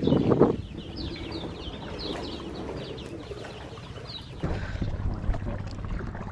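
A bird singing a quick run of short, falling chirps, several a second, after a brief louder noise at the very start; about four seconds in the chirps give way to a low steady rush.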